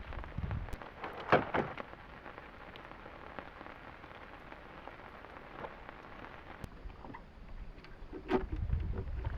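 Steady rain falling, with scattered sharp drop-like clicks. Louder knocks come about a second and a half in and again near the end, with a low rumble at the start and the end.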